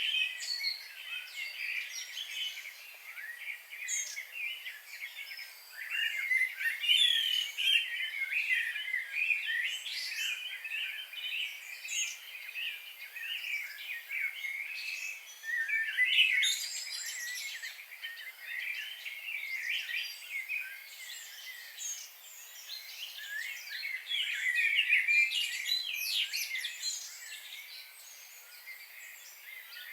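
Several wild birds chirping and singing at once, a dense chorus of overlapping high calls and trills over a faint background hiss.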